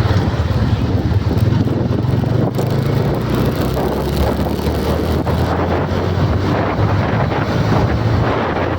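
Steady low rumble of a running engine, mixed with wind noise on the microphone.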